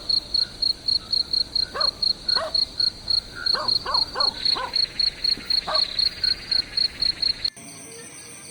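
Insects chirping at night in a high pulsing trill, about four pulses a second, with a dog yelping in short falling calls many times. About a second before the end the sound cuts suddenly to music.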